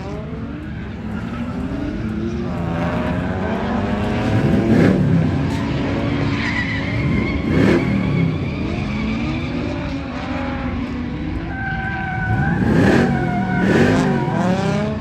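A car engine revving up and down over and over, with tyres skidding, as a car drifts on a skid pan. The revs swell to their loudest a few times, about five, eight, thirteen and fourteen seconds in.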